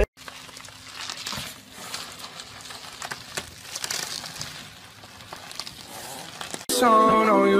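Plastic bubble wrap crinkling and crackling with many small quick ticks as a small dog wriggles along inside a tube of it. Near the end, music with singing cuts in suddenly.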